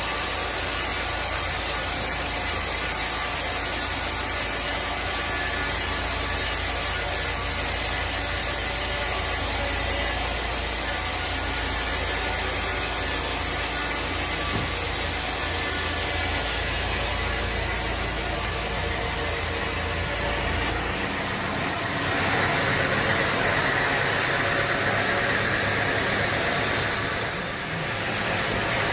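Sawmill saw running steadily through a large teak log, with machinery noise throughout. About 21 seconds in the sound changes and a steady whine comes in.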